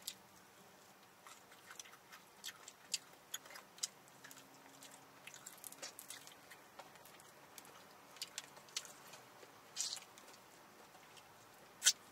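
Close-miked chewing and mouth sounds of people eating fried chicken: soft smacks and small crunches scattered throughout, with a sharper click near the end.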